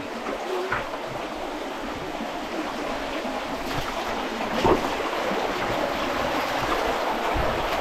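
Steady rush of running water, with a few light knocks.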